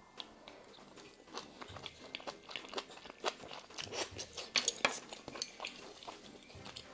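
Close-miked eating of a spoonful of rice with pork kimchi stew: a run of wet mouth clicks and soft crunches as she chews, busiest about four and a half seconds in.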